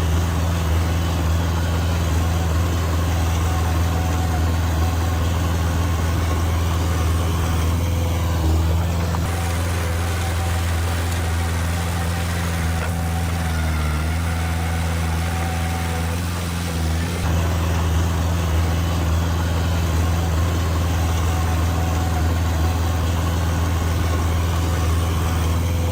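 Heavy diesel engine of earthmoving machinery running steadily with a low, even hum, dipping slightly in pitch about halfway through.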